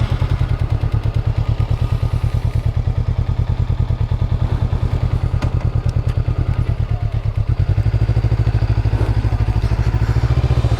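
Honda CB500X's parallel-twin engine running at low revs with a steady, fast pulse, picking up slightly about eight seconds in.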